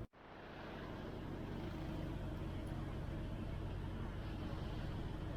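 Motor vehicle engine running steadily with road and traffic noise, starting just after a brief dropout in the sound.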